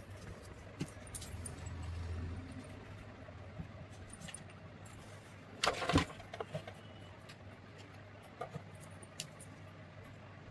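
Small metal parts and tools being handled: scattered light clicks and clinks, with a louder clatter about six seconds in, over a faint low hum.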